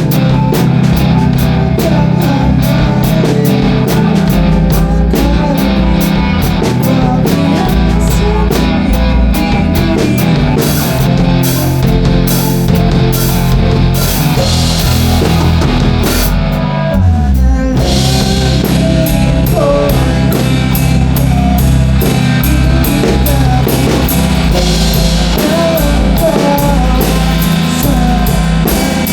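Rock band playing, with drum kit and guitar driving the song. The music thins out briefly a little past halfway, then the full band comes back in.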